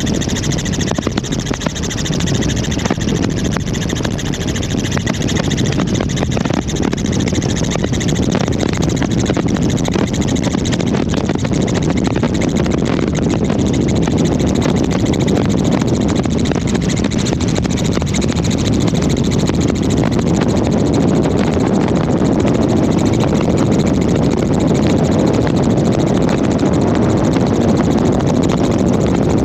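Helicopter in flight heard from on board: steady turbine and rotor noise that grows slightly louder over the span.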